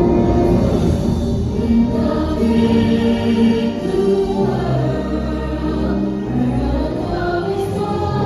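Live stage-musical number: a chorus of voices singing over a loud, steady musical backing with a deep bass line.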